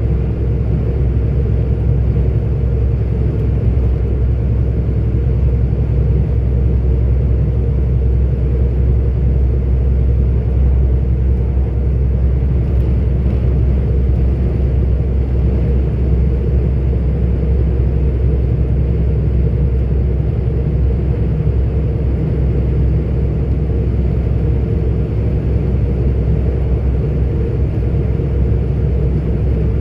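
Engine and road noise of a 44-ton articulated truck driving steadily along the road, a constant low rumble with no changes.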